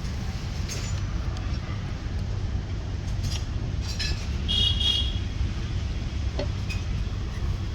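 A steady low rumble with scattered light metallic clinks, and a brief high squeak about halfway through.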